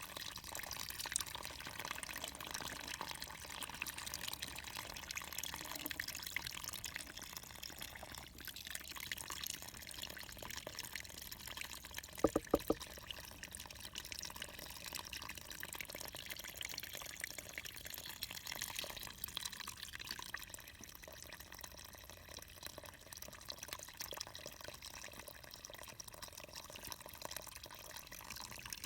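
Running water trickling and splashing, with a short cluster of sharp knocks about twelve seconds in.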